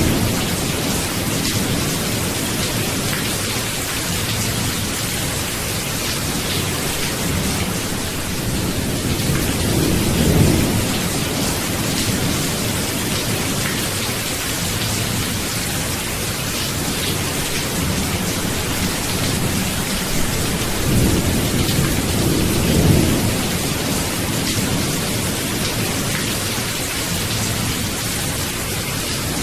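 Steady heavy rain falling, with low rumbles of thunder that swell about ten seconds in and again around twenty-two seconds.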